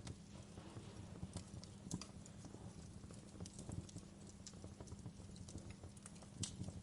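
Wood fire crackling: irregular sharp pops and snaps over a low steady rumble of burning, with louder pops about two seconds in and near the end.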